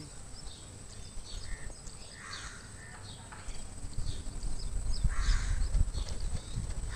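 Outdoor birdsong: small birds chirping in short, high notes, with two louder, harsher bird calls about two and a half and five seconds in. From about four seconds in, a low rumbling on the microphone rises beneath them.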